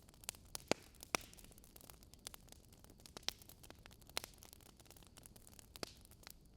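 Wood fire crackling in a fireplace: irregular sharp pops and snaps over a faint hiss, the loudest in the first second or so.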